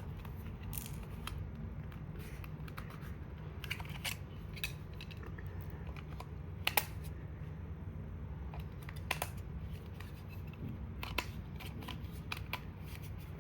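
Irregular small plastic clicks and knocks from handling a remote control while fitting batteries and snapping the battery cover shut, the loudest click about halfway through, over a steady low hum.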